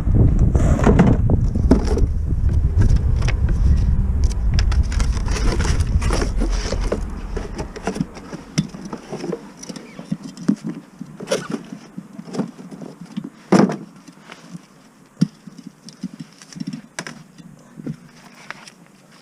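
Knocks, clicks and small metallic rattles of tools and parts being handled during clutch work. A low rumble runs under them for about the first eight seconds, then drops away, leaving the scattered knocks.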